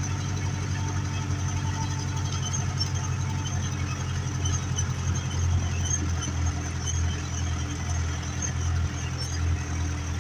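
Ursus 385 tractor's diesel engine running steadily with a low, even hum, as when ploughing.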